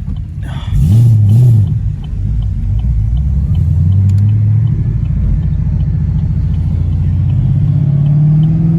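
LT1 V8 of a 2017 Camaro SS running through an aftermarket valved (Valvetronic) exhaust. A short loud rev about a second in, its pitch rising then falling, then the engine pulls steadily with its pitch slowly rising as the car gains speed.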